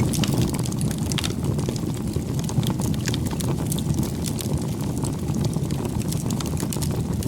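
Campfire burning: a steady low rush of flames with many small, irregular crackles and pops.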